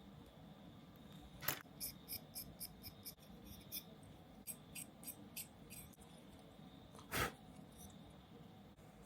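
Small clicks of hand tools and parts being worked on a model kit: one sharp click, then a quick run of about ten light clicks at roughly four a second, a shorter run after a pause, and a louder click near the end.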